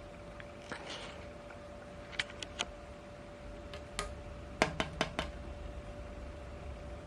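Niga FC08-50 18-inch mini ceiling fan running with a steady motor hum. Scattered sharp clicks come over it, with a quick run of four about halfway through, after which the low hum grows stronger.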